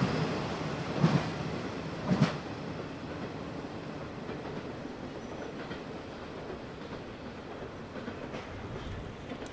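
Train rolling past on the rails, with three sharp clacks of the wheels over rail joints in the first couple of seconds. The rumble then drops and settles into a lower, steady noise.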